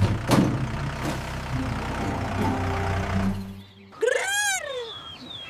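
Tractor engine running steadily with a couple of knocks, cutting off suddenly about three and a half seconds in. Half a second later comes a short animal cry that rises and falls in pitch.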